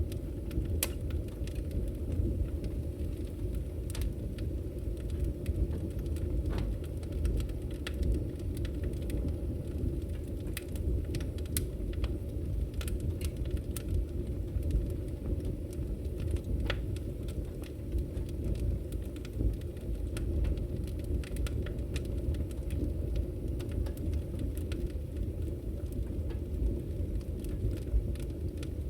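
Wood fire burning: a steady low rumble of flames with scattered, irregular crackles and pops from the burning logs.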